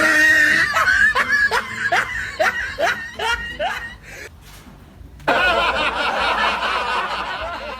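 A person laughing: a quick run of short rising "ha" sounds for about four seconds, then, after a brief lull, a louder, breathier stretch of laughter.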